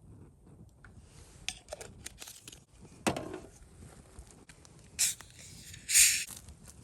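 Camp cooking gear being handled: a few light clicks, a knock about three seconds in, then two short scraping, rustling sounds near the end, the second the loudest.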